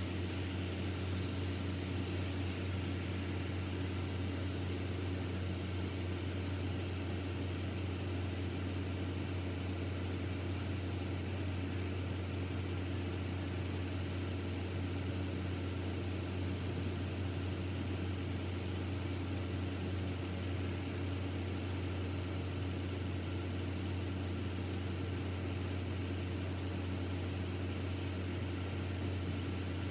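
A vehicle engine running steadily with a constant low drone and no change in speed.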